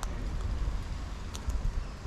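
Wind buffeting the microphone as a steady low rumble, with a few faint sharp clicks about one and a half seconds in.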